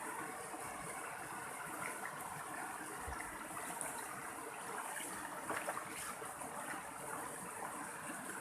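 Mountain stream running steadily over rocks, a continuous rushing with small splashes and gurgles.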